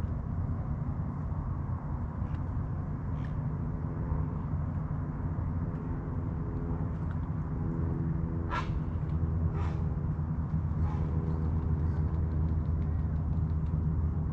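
Motorboat engine running steadily on the water, a low rumble growing slightly louder toward the end. Two short bird calls come a second apart about halfway through.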